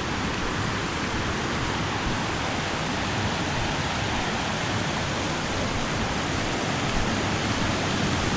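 Waterfall and creek water rushing, a steady, even roar of falling water with no breaks.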